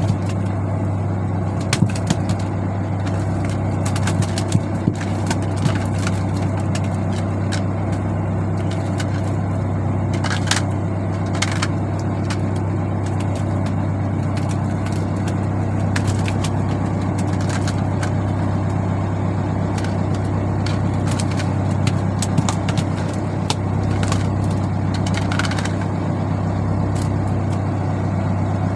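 Fishing boat's engine running at a steady drone, with scattered clicks and knocks throughout.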